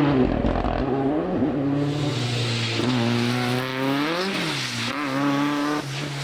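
Rally car engine at full throttle on a stage, the revs climbing and dropping at gear changes several times, with the sound slowly fading as the car moves away.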